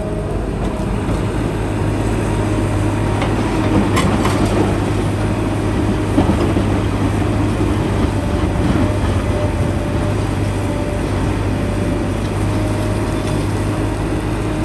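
Heavy excavator's diesel engine running steadily with a constant low hum, and a brief sharp knock about four seconds in.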